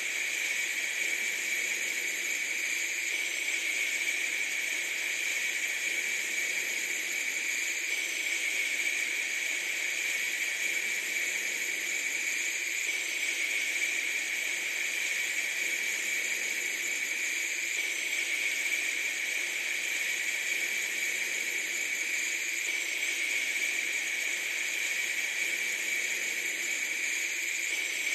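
A steady, unchanging hiss of noise, strongest in a high band, with no breaks or distinct events.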